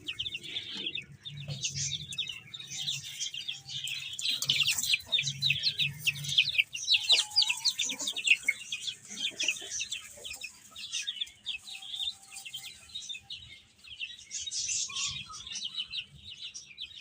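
A group of baby chicks peeping: many short, high, falling chirps overlapping in a constant chatter, busiest in the middle and thinning a little later on.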